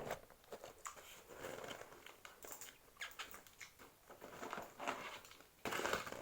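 A person chewing and crunching KFC fried chicken close to the microphone, in irregular, crackly bursts, with a louder burst near the end.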